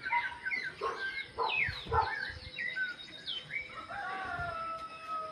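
Several birds singing at once, a dense mix of short whistled chirps that sweep up and down. Near the end a longer call is held for over a second, falling slightly in pitch.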